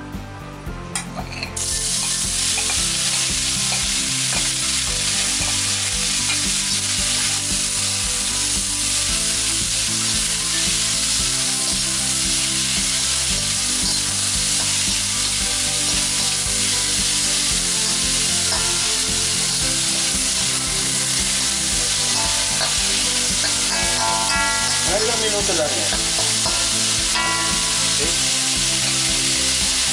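Mixed vegetables (peas, carrots and green beans) hitting hot vegetable oil in a steel wok about a second and a half in, then sizzling steadily as they are stirred with a spatula.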